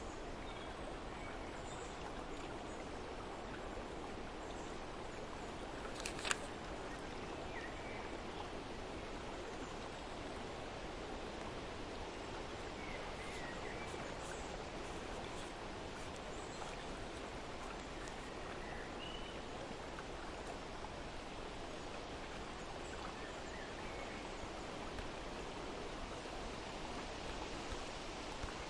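Steady outdoor nature ambience: an even hiss like running water, with faint scattered bird chirps and a single sharp click about six seconds in.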